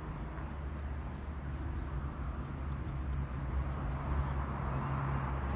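Steady low hum of a vehicle engine running, with a broad rumble and no distinct events.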